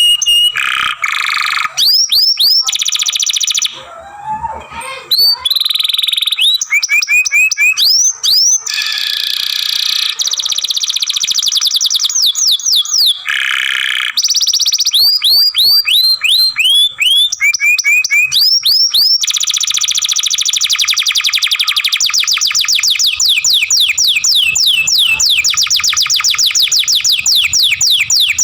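Young domestic canary singing a long unbroken song of fast trills, runs of repeated downward-sweeping whistled notes and buzzy rolled phrases, with a brief softer pause about four seconds in.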